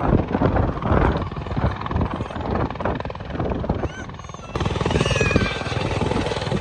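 Helicopter in flight: a steady, fast rotor chop with engine noise. The sound changes abruptly about four and a half seconds in.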